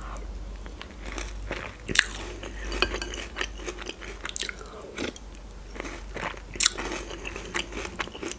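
Close-up chewing and crunching of pillow-shaped breakfast cereal in milk, taken by the spoonful, with wet mouth sounds. A couple of sharp clicks stand out, about two seconds in and again a little past six and a half seconds.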